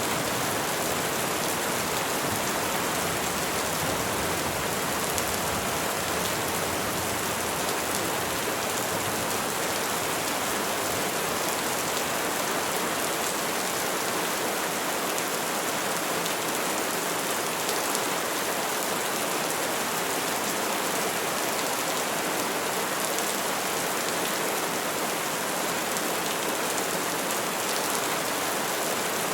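Steady rain falling on trees, an even, unbroken hiss of many drops. A low rumble, the tail of thunder, dies away over the first ten seconds or so.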